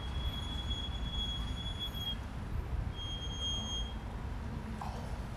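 Road traffic rumbling past, with a thin high squeal held for about two seconds at the start and a second, shorter one about three seconds in.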